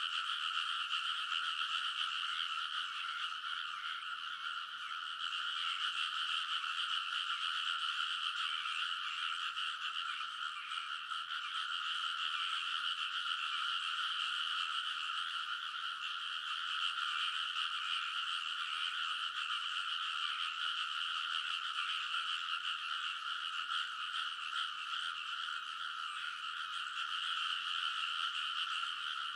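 A dense chorus of many frogs calling together in a rice paddy: steady, overlapping croaking with no break.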